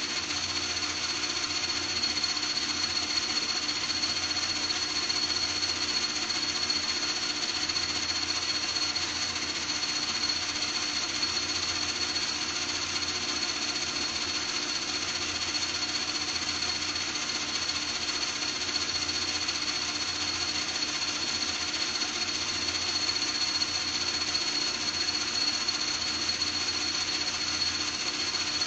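Small electric motor or power tool running continuously at a constant speed, with a steady high-pitched whine over a mechanical drone.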